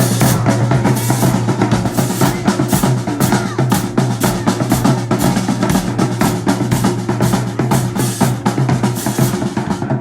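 High school marching band drumline playing a fast drum cadence, many hits a second, over a steady low tone.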